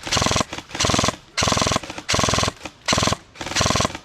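Airsoft gun firing on full auto in short, rapid bursts, about six of them, each lasting under half a second with brief pauses between.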